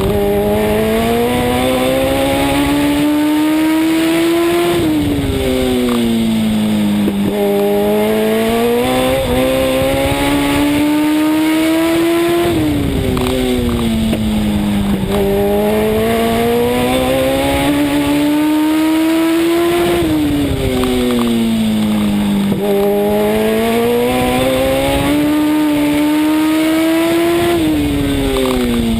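Legend race car's engine heard from inside the car at racing speed. Its pitch climbs steadily on each straight and drops sharply each time the driver lifts for a turn, about four times in a regular lap rhythm.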